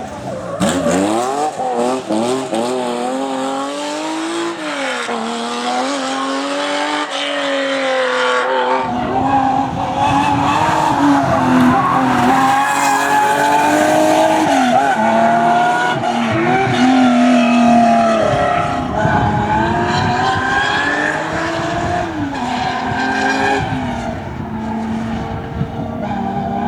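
Historic Porsche racing car engines revving hard, their pitch repeatedly climbing and dropping through gear changes. About nine seconds in the sound changes abruptly and a deeper rumble comes in underneath.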